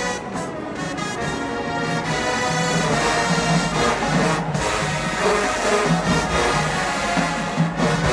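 HBCU marching band playing, with brass horns carrying the tune over a pulsing low brass bass line.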